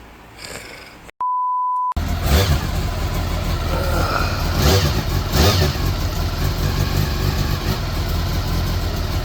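A short, steady electronic beep in silence, then the Honda CBR400RR's inline-four engine idling steadily.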